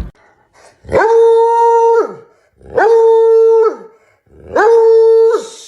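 Dog howling three times, each howl about a second long, swooping up quickly, held at a steady pitch, then dropping away at the end.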